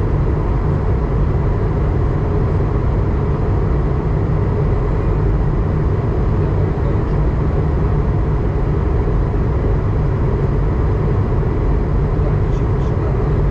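Steady in-flight cabin noise of an Airbus A220-100: the drone of its Pratt & Whitney PW1500G geared turbofans and the rush of air over the fuselage, with a faint steady hum. It is heard during the descent, after the handoff to approach control.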